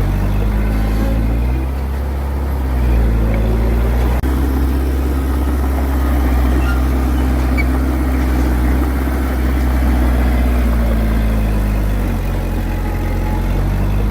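Heavy-equipment diesel engine running, rising in pitch about two to three seconds in, holding there, and falling back to a lower speed near the end.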